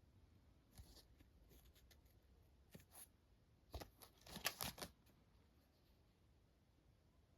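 Faint handling noises from an unboxing: soft rustles and light clicks, with a short cluster of sharper clicks and rustling about four seconds in, then quiet.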